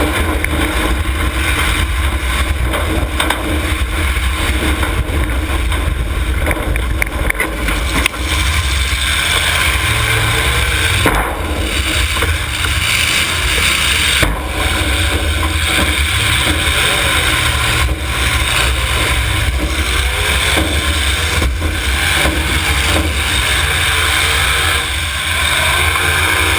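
Demolition derby cars' engines running hard and revving, with several sharp bangs spread through, typical of cars colliding.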